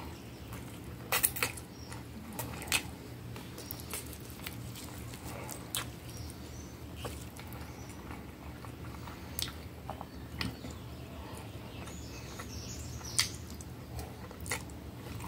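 A person eating spaghetti and potato salad with mayonnaise: close-up chewing with scattered sharp clicks, the loudest just over a second in and again near the end.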